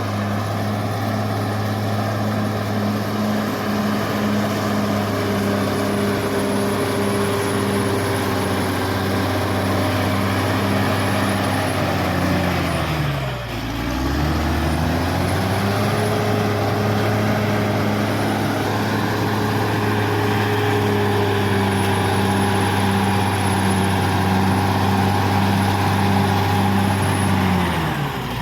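Caterpillar D6R XL bulldozer's diesel engine running steadily under load, with a thin high whine above it. About halfway through, and again at the very end, the engine speed drops sharply and then picks back up.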